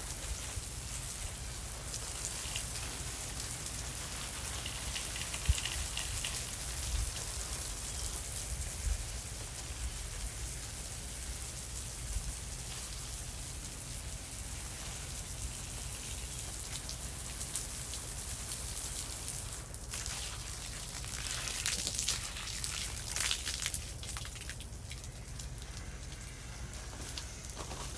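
Garden hose spraying water onto plants and soil: a steady hiss and patter, with a spell of heavier spattering about two-thirds of the way through.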